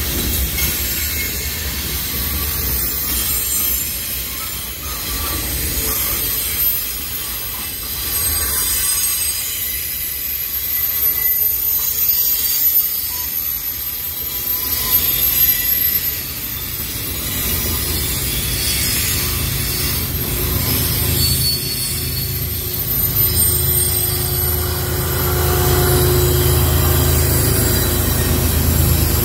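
Freight cars of a long train rolling past with steel wheels squealing high on the rails. From a little past halfway, the diesel of a GE Evolution-series ES44AH locomotive working as a mid-train distributed-power unit grows louder as it approaches, and it is loudest near the end.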